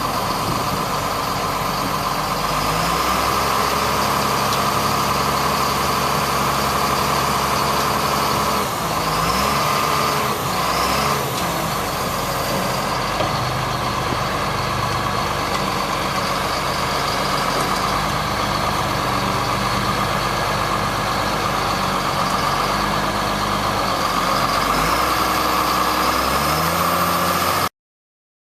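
1999 GMC digger truck's engine running, its speed stepping up about three seconds in, dropping and coming back up a few seconds later, and again near the end, with a steady high whine over it. The sound cuts off suddenly about a second before the end.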